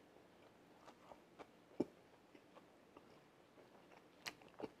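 Faint chewing of a sauced chicken wing, with scattered small wet mouth clicks; two slightly louder clicks come about two seconds in and near the end.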